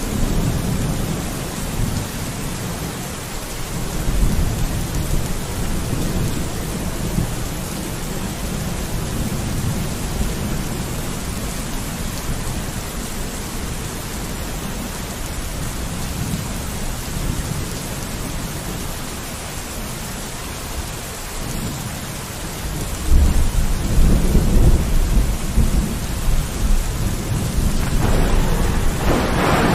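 Steady rain on a window with low rolling thunder. The thunder swells briefly about four seconds in and rumbles louder and longer over the last several seconds.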